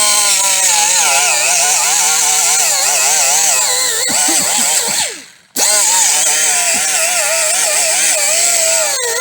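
Handheld power tool stripping rust from a BMW E36 M3's steel body, running with a whine whose pitch wavers up and down as it bears on the metal, over a steady hiss. It winds down about five seconds in and starts again half a second later.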